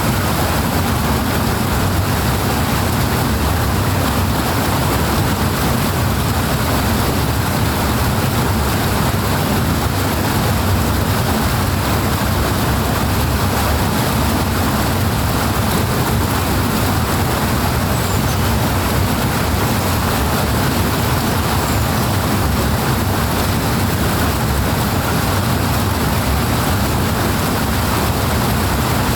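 Powerful rushing water: a steady deep rumble of falling water with no breaks or changes.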